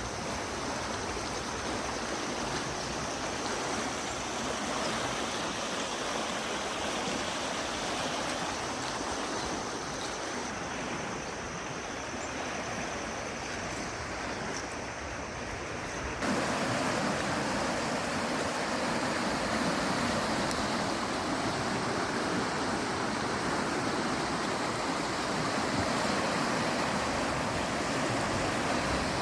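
Rain falling, a steady even hiss that becomes abruptly louder and fuller about halfway through.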